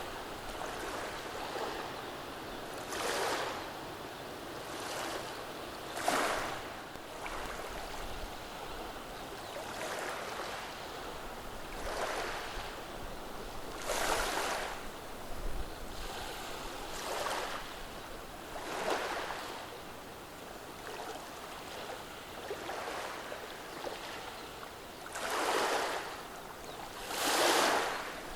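Small, gentle sea waves washing over a pebble beach. The water rushes in and drains back through the stones in short swishes about every two seconds, over a steady hiss, with two louder washes near the end.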